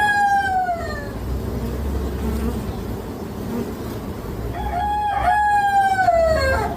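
A rooster crowing: the end of one crow falling away about a second in, then a second full crow beginning about four and a half seconds in, held and falling at the end. A steady low hum runs underneath.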